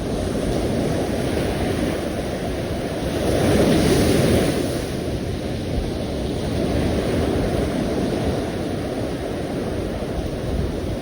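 Sea waves breaking and washing continuously, with one wave swelling louder about four seconds in.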